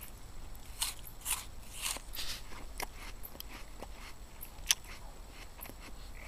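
A person chewing a bite of raw apple close to the microphone: a run of irregular, crisp crunches, the sharpest a little past the middle.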